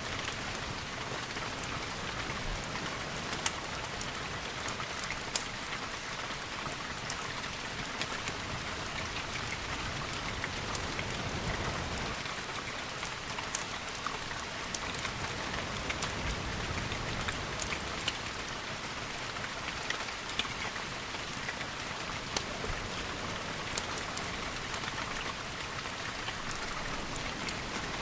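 Steady rain hiss, with frequent sharp ticks and crackles scattered over it and a low rumble that swells in the background about halfway through.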